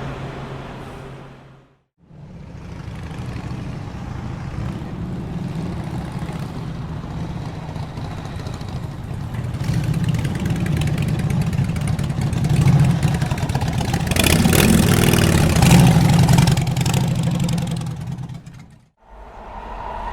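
City street traffic: a motor vehicle's engine runs with a deep rumble that builds up, is loudest about fourteen to seventeen seconds in, then fades away.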